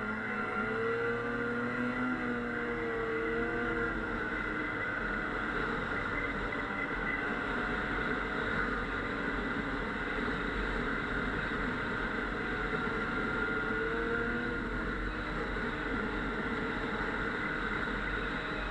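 Snowmobile engine running while riding, its pitch wavering up and down a little, over a steady rushing noise.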